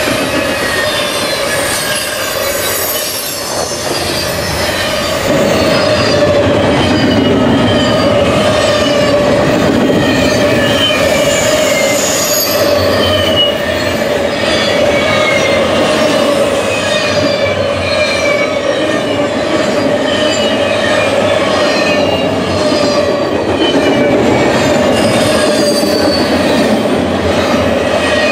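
Double-stacked container well cars of a long freight train rolling past, wheels rumbling on the rails with many short, gliding high squeals and a steady ringing tone. The sound gets louder about five seconds in.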